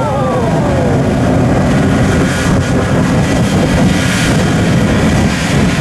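Jet engines of the Shockwave jet truck running loud with a steady low rumble; a whine falls in pitch over the first second, and faint steady high tones sit above.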